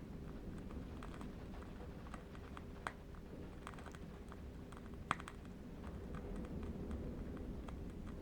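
Faint, irregular crackles and ticks of a burning candle wick over a steady low wind rumble, with two sharper clicks about three seconds and about five seconds in.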